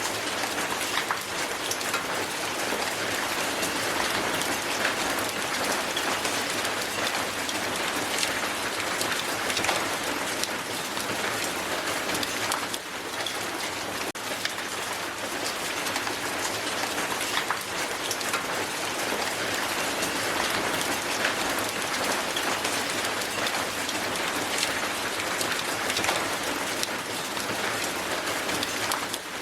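Hail falling hard onto the ground: a dense, steady patter of countless small ice pellets striking.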